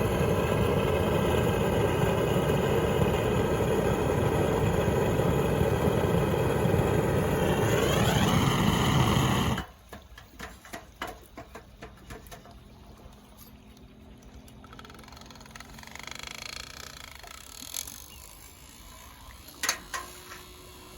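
A motor running steadily, its pitch rising about eight seconds in, then cutting off abruptly. Afterwards it is much quieter, with scattered small clicks and knocks.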